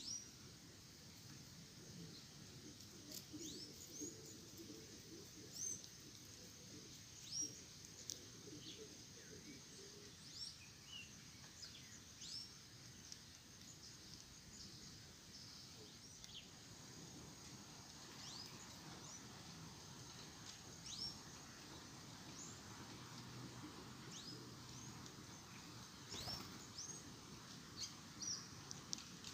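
Small birds calling faintly with many short, high chirps scattered irregularly, over a faint steady high tone.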